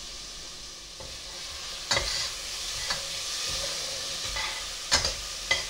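Diced tomato, green chili, onion and garlic sizzling in hot oil in a stainless steel pressure cooker while being stirred, with a few sharp knocks of the stirring utensil against the pot, the loudest about two and five seconds in.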